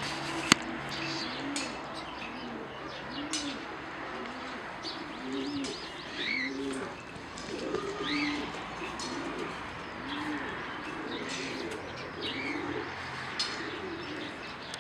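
Pigeons cooing, many low, rising-and-falling coos overlapping one after another, with a few short high chirps from small parrots over them. There is a sharp click about half a second in.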